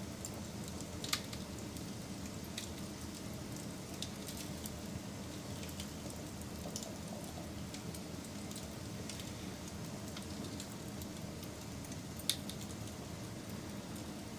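Campfire crackling: a steady low rumble of burning wood with scattered sharp pops, two louder ones about a second in and near the end.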